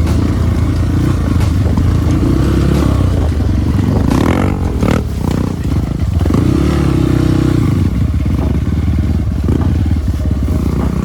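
Off-road trail motorcycle engine running under load, its pitch rising and falling as the throttle is worked, with a short dip in level about five seconds in.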